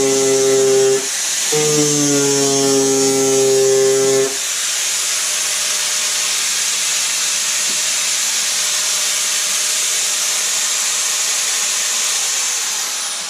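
Angle grinder grinding back the steel at the bottom of a car door: two loaded bursts with a low buzzing tone, then a steady high whine and hiss. Near the end it is switched off and winds down.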